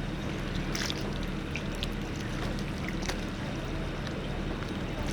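Boat engine running steadily with a low hum, with scattered light ticks over it.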